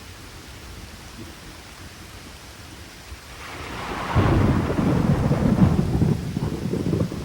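Steady rain falling. About halfway through, a thunderclap breaks with a sharp crack and swells into a loud, low, crackling rumble that rolls on.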